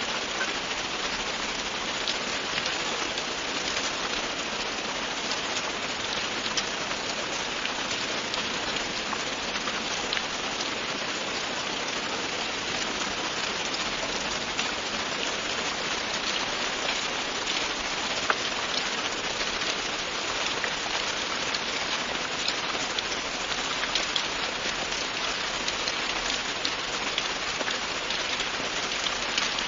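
Steady, continuous rain falling, an even hiss with many individual drops ticking on a hard surface.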